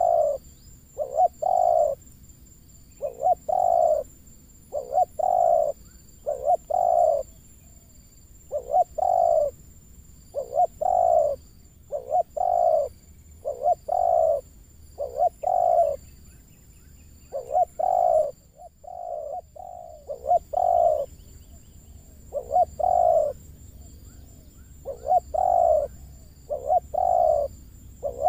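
Spotted dove cooing over and over, its low calls coming in short phrases of two or three notes with brief pauses between.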